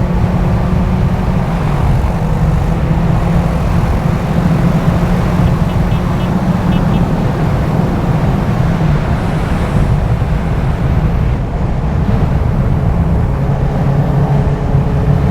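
Benelli TNT 600i's inline-four engine running steadily under way, heard on board at a moderate, even pitch that dips slightly about two-thirds of the way through.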